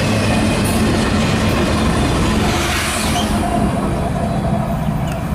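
Union Pacific double-stack intermodal train rolling past: a loud, steady rumble of container cars' wheels on the rails.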